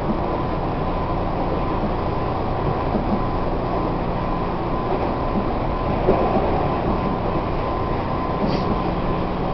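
Tobu 1800 series electric train running at speed, heard from inside a passenger car: steady running noise with a faint steady hum.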